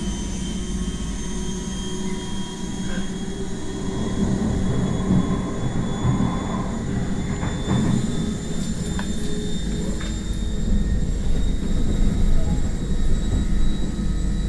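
NS ICMm (Koploper) electric train accelerating, heard from on board: the whine of its traction equipment rises steadily in pitch over a low rumble from the running gear, with a few short clicks.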